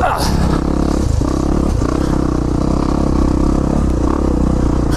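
Yamaha 450 dirt bike's single-cylinder four-stroke engine running at steady low revs as the bike crawls along a trail, with a couple of short knocks a little over a second in.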